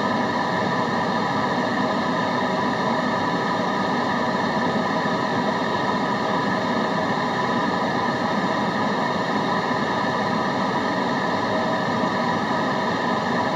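Steady white-noise track: an even, unchanging hiss with a few faint steady tones running through it.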